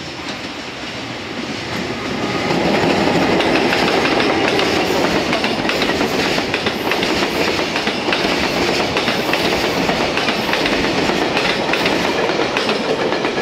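Container freight train hauled by an EF210 electric locomotive passing at close range: a steady rumble with the clickety-clack of wagon wheels over the rail joints, growing louder about two seconds in as the wagons come alongside.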